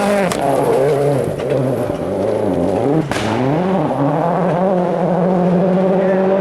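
Rally car engine at speed: the revs drop and waver up and down for a couple of seconds, a sharp crack comes about three seconds in, then the engine climbs back and holds a steady high note.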